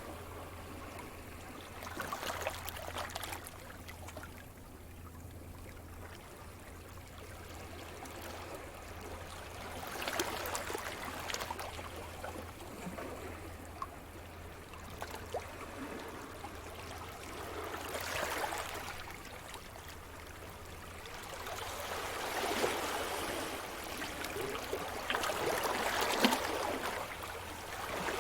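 Sea surf: waves wash in and draw back, the water noise swelling and easing several times and growing louder toward the end.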